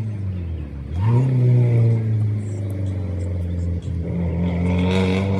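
Rally car's engine easing off into a corner, then accelerating hard away with a sharp rise in pitch, a brief break for a gear change about four seconds in, and pulling again.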